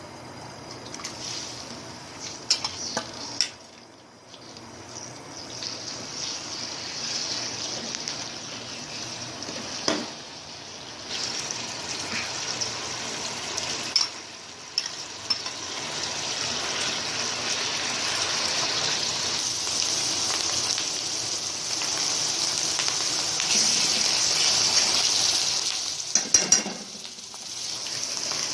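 Food sizzling in hot oil in a karahi, a steady high hiss that grows louder, broken by a few sharp knocks of a utensil against the pan, several close together near the end.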